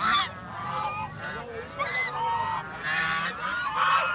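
A flock of domestic waterfowl calling continuously, several calls overlapping at once, with one sharp high call about two seconds in.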